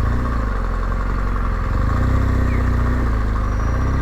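Motorcycle engine idling steadily, its pitch lifting slightly for a moment around the middle.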